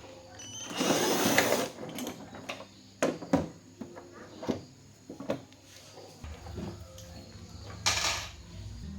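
Handling and workbench noises: a loud scraping rustle of about a second near the start, several sharp knocks and clicks, and a shorter rustle near the end.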